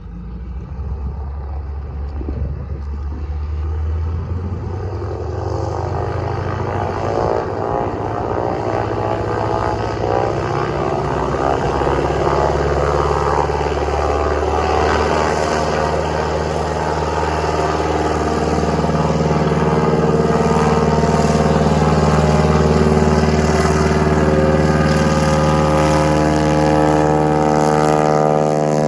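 Light aircraft's piston engine and propeller powering up for take-off: a loud, steady engine note with strong harmonics that builds over roughly the first twenty seconds and then holds at full power.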